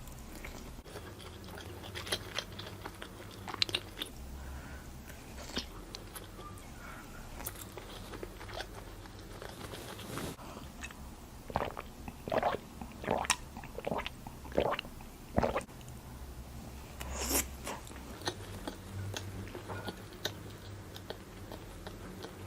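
Close-up eating of barbecued skewer food: quiet chewing with scattered sharp crunchy bites, a run of about six louder crunches around the middle and another near the end.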